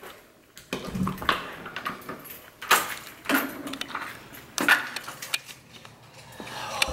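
Keys jangling and a door being handled: a string of short clinks and knocks spread over several seconds.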